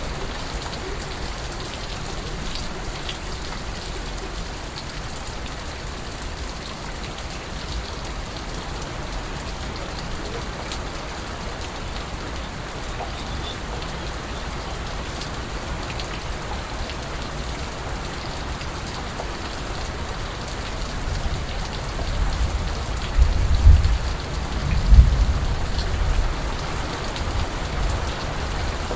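Steady rain falling, with drops dripping. About two-thirds of the way through, a low rumble swells for several seconds, with two loud peaks.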